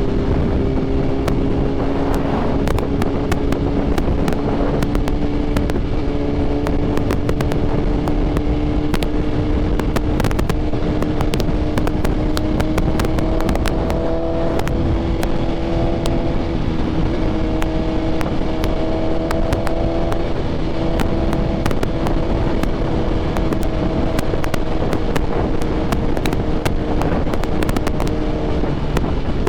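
Motorcycle engine running at steady cruising revs, its pitch creeping slowly up through the ride and easing slightly near the end, with wind rushing over the microphone.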